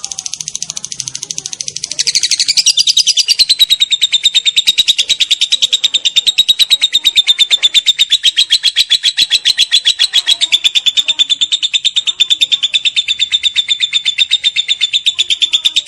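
Lovebird's long 'ngekek' call: an unbroken chattering trill of rapid, evenly repeated high notes, getting louder about two seconds in and then holding steady.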